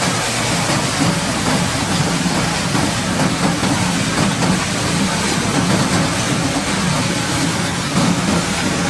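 A heavy engine running steadily, with an even hiss over it.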